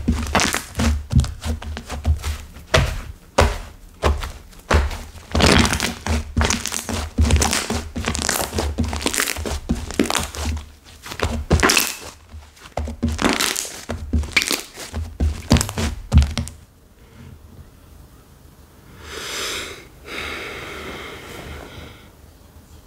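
Hardened clay 'flora' slime squished and folded by hand, giving dense crackling, popping and dull thunks. The handling stops about 16 seconds in, leaving two soft rustling swells.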